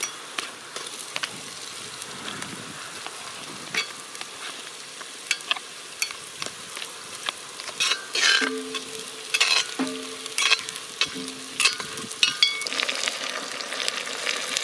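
Sausage pieces frying in hot oil with onions in a cast iron pot: a steady sizzle full of crackles and spits as they are stirred with a knife. The sizzle grows louder near the end.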